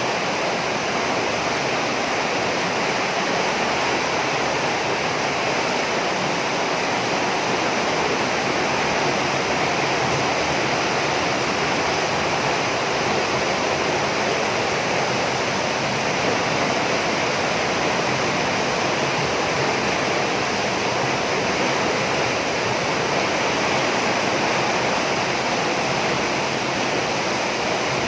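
Heavy rain pouring steadily on a roof, a continuous loud hiss with no letup.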